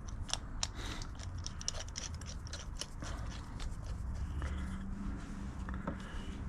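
Scattered light clicks and taps of small carburetor parts being handled and fitted together while a small-engine carburetor is reassembled.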